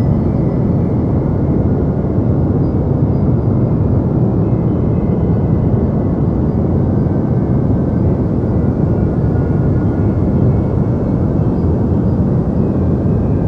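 Deep white noise: a steady, even hiss-rumble weighted toward the low end, with no changes or separate events.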